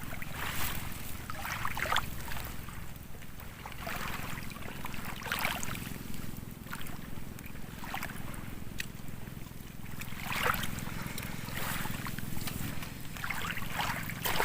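Water splashing and lapping in irregular short swells every second or two, over a steady low hum.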